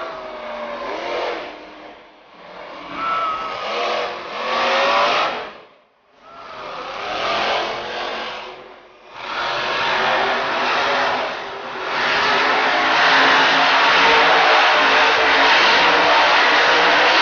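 Monster truck engine revving in several surges that rise and fall, dipping almost to nothing briefly midway, then running loud and steady for the last few seconds.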